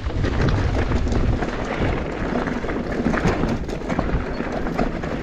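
Mountain bike riding over a rough trail: wind buffeting the microphone in a low rumble, with tyre noise and many small rattles and knocks from the bike.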